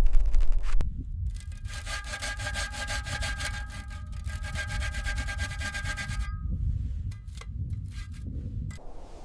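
Rapid rasping strokes, like sawing or scraping, with a steady ring in them, over a low rumble. The strokes stop about six seconds in.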